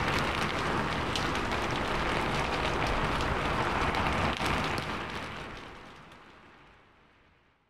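Rain falling steadily, with individual drops ticking sharply on a hard surface. About halfway through, the sound fades out gradually to nothing.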